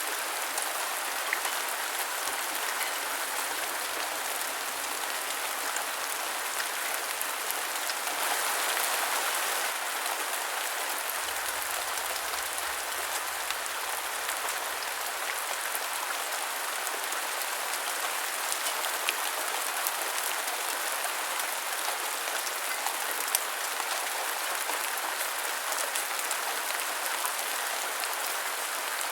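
Steady rain falling, a dense even hiss dotted with sharp drop ticks; it swells briefly about eight seconds in.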